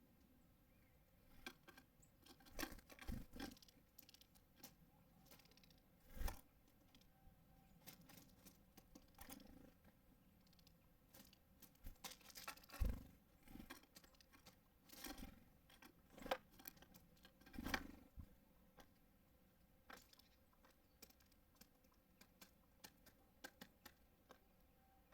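Small birds at a feeder: irregular taps, knocks and scrapes as they land, hop and peck at seed, with a few louder knocks among the faint clicking.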